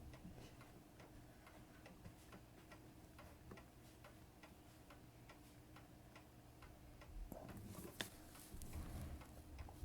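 Faint, even ticking of a Seiko 7548 quartz watch movement running during a rate check. About eight seconds in there is a sharp click with some handling noise around it.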